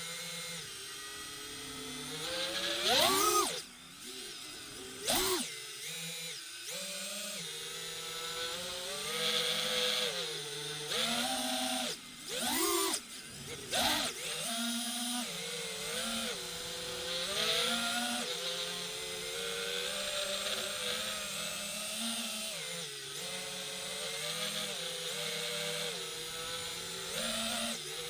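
DJI FPV drone's electric motors and propellers whining, the pitch rising and falling as the throttle changes, with several brief sharp surges in speed.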